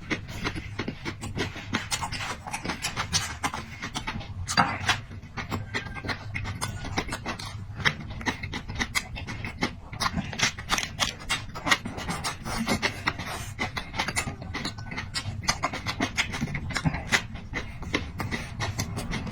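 A person eating noisily up close, with a rapid, irregular run of wet chewing and lip-smacking clicks and occasional breaths.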